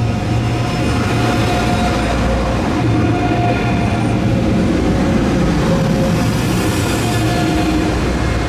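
DB ICE 3 (class 403) high-speed electric train running past close by: a loud, steady rolling rumble of wheels on rails with a thin steady tone over it, as the last cars go by.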